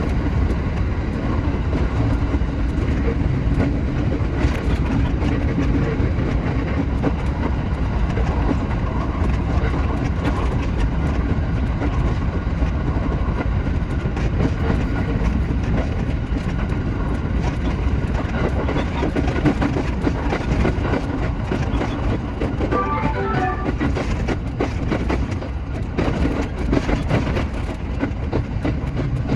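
Shinano Railway SR1 series electric train running, with a steady rumble and wheels clicking over the rail joints. A short run of higher tones sounds about three-quarters of the way through.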